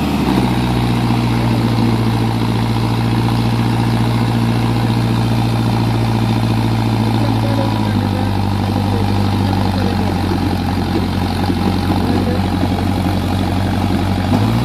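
Tractor engine running steadily. It speeds up at the very start, holds its pitch, then settles a little lower about eight seconds in.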